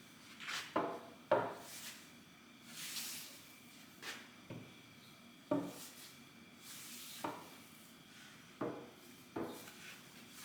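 Solid wooden pieces being handled: about seven short, sharp knocks with a brief ring, spread unevenly, with softer sliding or rubbing strokes in between.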